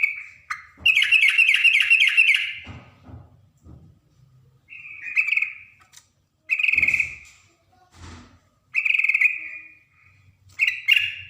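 Yellow-vented bulbul (trucukan) singing: short, bubbling phrases repeated every second or two, the longest a rapid run of notes about a second in.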